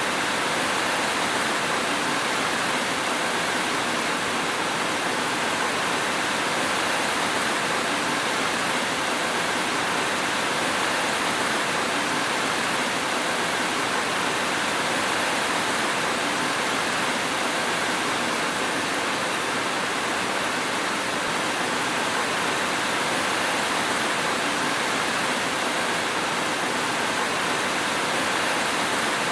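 Steady rain falling, an even, unbroken hiss with no thunder or other events.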